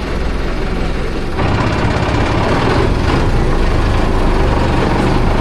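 A vehicle engine running steadily, heard from on board, with a loud rushing noise over a low drone. It grows louder about a second and a half in.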